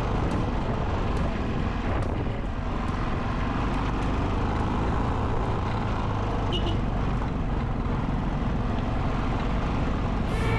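Yamaha Ténéré 660 single-cylinder motorcycle engine running steadily while riding, mixed with a steady rush of wind noise.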